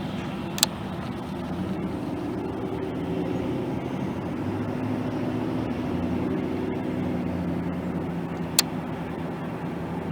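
Jet airliner engine noise: a steady rumble that swells a little midway. Two sharp clicks, about half a second in and near the end.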